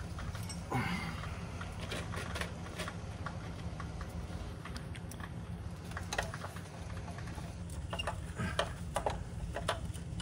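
Scattered light metallic clicks and clinks of hand tools at work on an engine, over a steady low hum.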